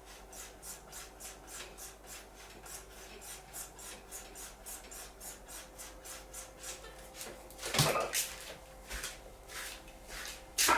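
Straight razor being stropped: rhythmic swishing strokes of the blade along the strop, about three a second, slowing near the end, with one louder knock about eight seconds in.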